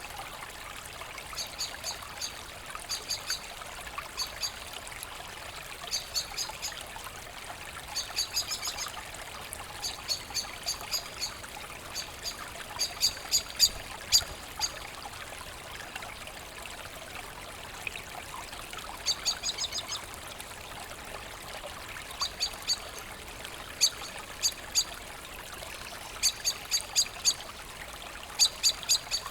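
Forest brook trickling steadily, with a bird repeatedly calling over it in short bursts of quick, high chirps every second or two.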